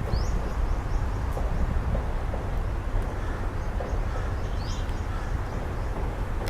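Wind rumbling on the microphone, with two short, high, rising bird calls, one at the start and one just under five seconds in, and a few faint chirps between them.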